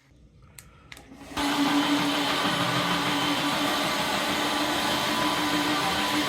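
Dreame H12 Pro cordless wet-dry floor washer switching on about a second and a half in and running steadily: a loud rush of suction with a constant low tone from its motor. A couple of clicks come just before it starts.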